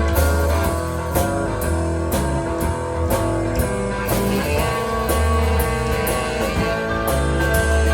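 Live blues band playing an instrumental passage: guitar lines over bass and a drum kit keeping a steady beat on the cymbals.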